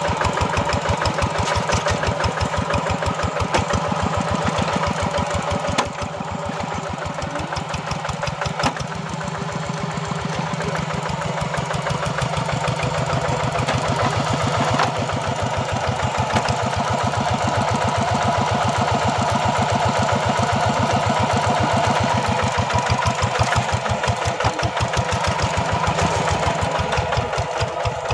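Tractor engine running steadily under ploughing load, with a rapid, even firing beat. It eases off briefly about six seconds in, then slowly builds back up.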